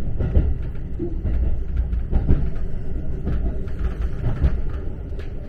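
Local train running, heard from inside the carriage: a steady low rumble of wheels on rail, with occasional knocks from the wheels over the track.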